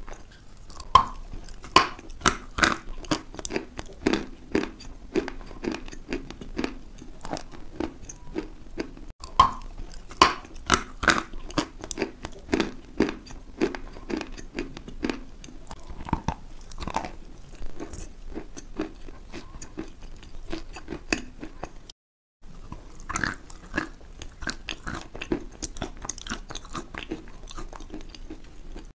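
Close-miked chewing of a crunchy mouthful, with many sharp crunches and bites. The sound cuts out for a moment a little over two-thirds of the way through, then the chewing goes on.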